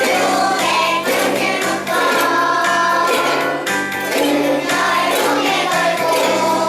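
Group of young children singing a song together over instrumental accompaniment with a steady bass line.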